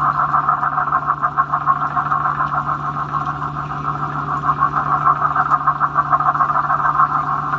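Fishing boat's engine running steadily, with a fast, even pulsing beat and a constant hum.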